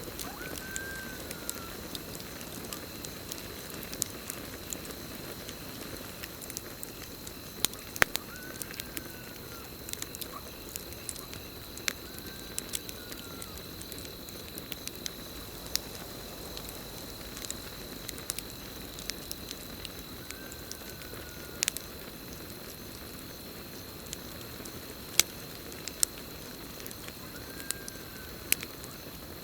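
Campfire burning with a steady low hiss and scattered sharp crackles and pops. Over it runs a steady high drone of night insects such as crickets. A short call that rises then falls is heard five times.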